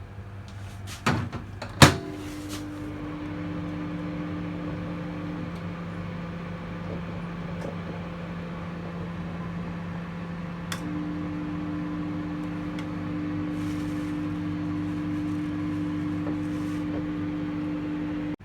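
Two sharp clicks about a second in, the second the loudest, then a microwave oven running with a steady hum.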